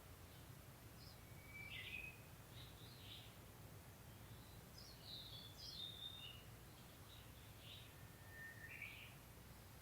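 Japanese bush warbler (uguisu) singing faintly: a long held whistle that breaks into a quick rising flourish, about two seconds in and again near the end, with shorter chirps in between. A steady low hum lies underneath.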